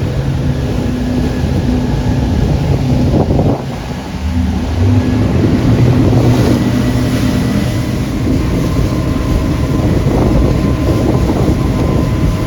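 Motorboat engines running at planing speed, with wind buffeting the microphone and water rushing past the hull. The engine note briefly drops a little under four seconds in, then comes back up.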